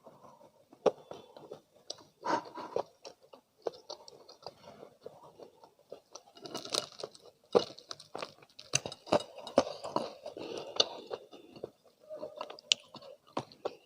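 Close-miked chewing of crispy spicy fried chicken: irregular crunches of the fried coating with sharp mouth clicks, thickest in the middle stretch.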